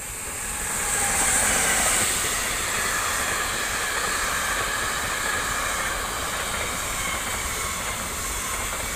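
Electric locomotive passing through at speed at the head of an intermodal freight train, loudest about one to two seconds in. It is followed by the steady noise of the container and trailer wagons rolling past.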